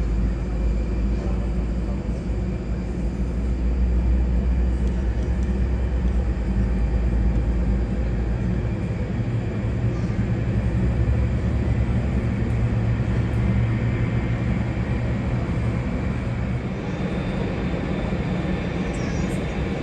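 Jet airliner engine noise: a steady low rumble whose deepest part shifts somewhat higher about halfway through.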